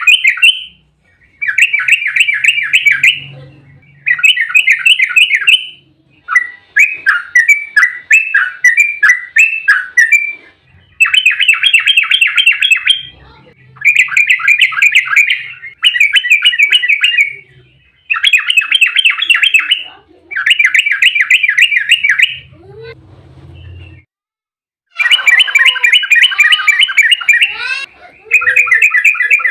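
Yellow-vented bulbul (trucukan) singing a rapid, chattering song in repeated bursts of about two seconds with short pauses between them. There is a brief break about two thirds of the way through.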